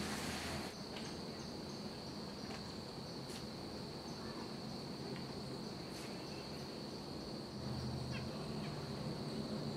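A steady, high-pitched insect drone, like crickets, that does not change, with a few faint clicks and short chirps scattered through it.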